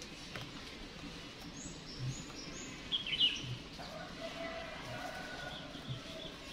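Birds chirping faintly in the background: a few short high chirps, then a couple of quick falling calls about three seconds in.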